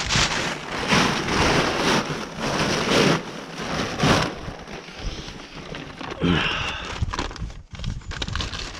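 A sheet cover being pulled off a tractor engine: rustling and crinkling in irregular bursts, loudest in the first few seconds, then quieter handling.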